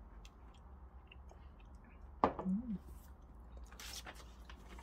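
Someone chewing a soft salted caramel sandwich cookie with pine nuts, with faint wet mouth clicks. A short hummed 'mm' sounds about two seconds in.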